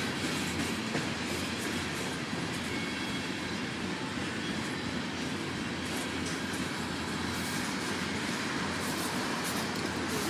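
Freight cars rolling past on the track: a steady rumble of steel wheels on rail, with scattered clicks from the wheels and rail joints.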